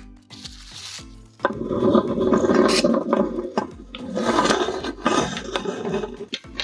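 Meat grinder chewing through a silicone pop it toy: a loud, rough grinding and rubbing noise that starts about a second and a half in and runs until near the end, over a music beat.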